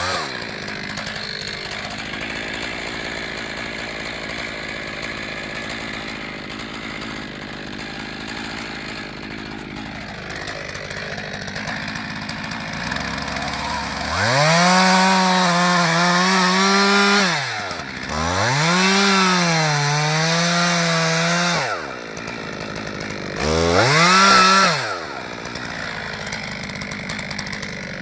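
Two-stroke chainsaw running at a lower speed, then revved up to full throttle three times, each time held for a few seconds before dropping back.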